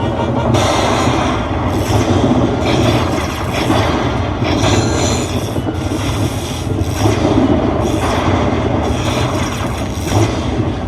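Slot machine sound effects during a free-spins round: loud, harsh, noisy bursts that come and go about every half second to a second.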